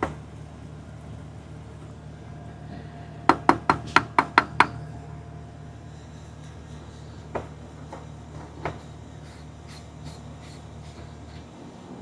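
Steady low engine hum that cuts off shortly before the end. About three seconds in comes a quick run of about seven sharp knocks, and three single clicks follow a few seconds later.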